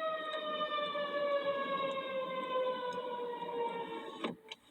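A siren wailing, its pitch slowly falling over about four seconds, then cut off abruptly by a click.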